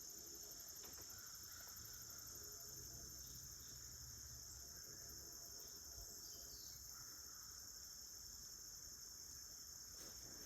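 Faint, steady high-pitched chorus of crickets and other insects, running without a break.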